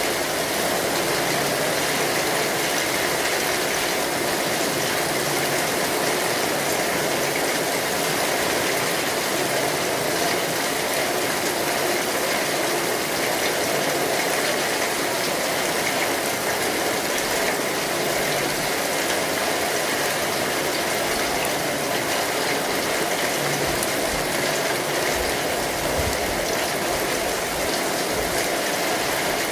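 Steady rain falling on an umbrella's fabric canopy, a dense, even hiss that holds at the same level throughout.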